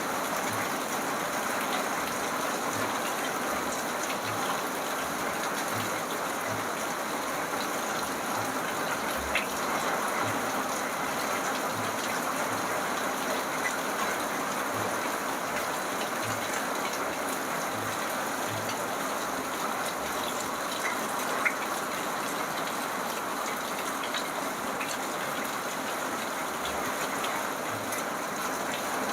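Steady rain, an even hiss with a few sharper drips standing out now and then.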